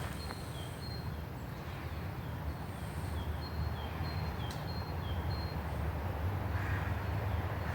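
A small bird calling over and over in short high notes, about two a second, over a low steady rumble.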